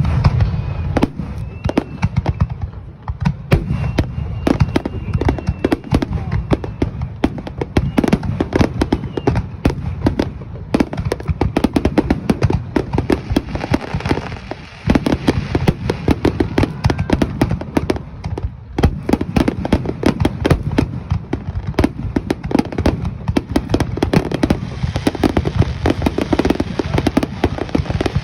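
Aerial fireworks display: a dense barrage of shells bursting in rapid succession, bang after bang with hardly a pause.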